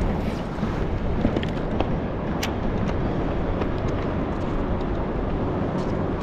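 Steady low rumbling water and air noise on a kayak's camera microphone at sea, with scattered small clicks.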